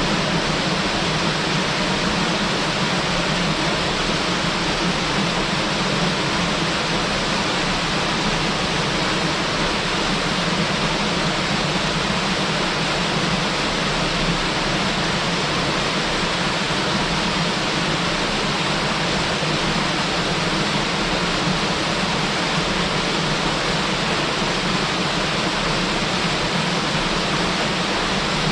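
Small waterfall pouring steadily, a constant full rushing of falling water.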